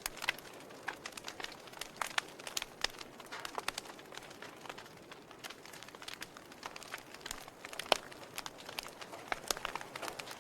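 Log fire in a fireplace crackling: irregular sharp pops and snaps over a faint steady hiss, the loudest pop about eight seconds in.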